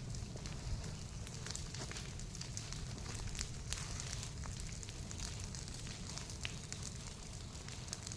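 Bonfire of pruned branches crackling, with irregular sharp pops over a steady low rumble.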